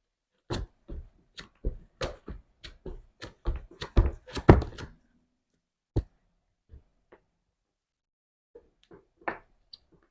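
Slime being handled by hand: a quick run of short taps and pops, about two or three a second, for roughly five seconds, then a few scattered taps.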